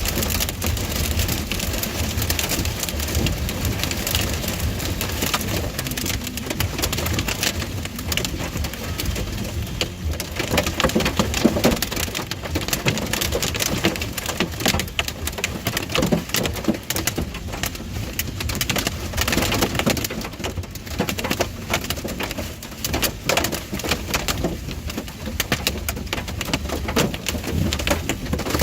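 Heavy rain pelting a car's windshield and roof in a thunderstorm, a dense, continuous patter over the low rumble of the car on the road.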